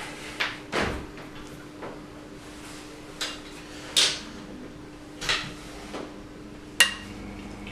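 Hand tools and nuts clinking and knocking as the cylinder head nuts are undone from their studs: about six separate sharp metal knocks, spaced unevenly, over a faint steady hum.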